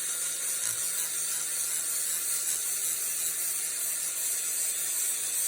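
Angle grinder polishing the steel head of a claw hammer: a steady, hissy grind.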